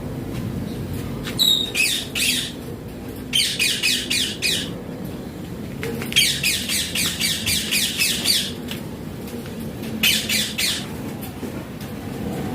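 Indian ringneck parakeet screeching in four bursts of rapid, harsh, high-pitched chatter, the longest lasting about two seconds.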